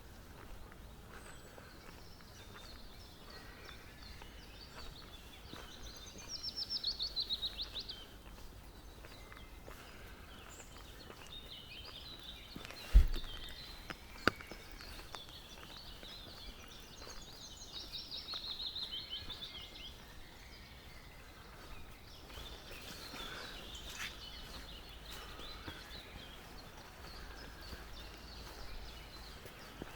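Forest birds calling over a faint steady background, with a rapid trilled call sliding down in pitch heard twice. There is a single sharp knock about halfway through.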